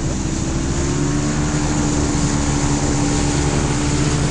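Off-road vehicle engine running at a steady speed, an even hum that neither rises nor falls.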